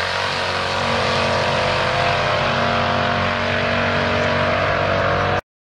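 Engine of a twin-turbo 1975 Chevy Caprice Classic running steadily, its pitch creeping slightly upward, then cutting off suddenly near the end.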